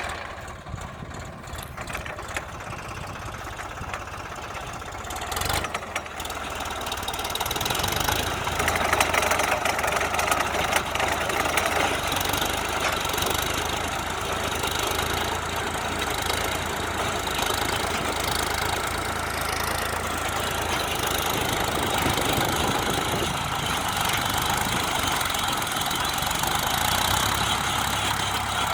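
Tractor engine running steadily, getting louder about eight seconds in and holding at higher revs.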